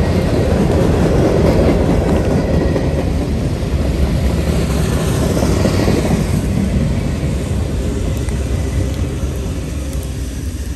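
A freight train of covered hoppers and boxcars rolling past on the rails: a steady, loud rumble of wheels and cars that dies away over the last few seconds as the end of the train goes by.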